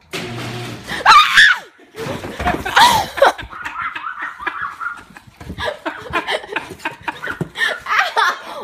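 People shrieking and laughing, with two loud high-pitched shrieks about one and three seconds in, followed by scattered laughter.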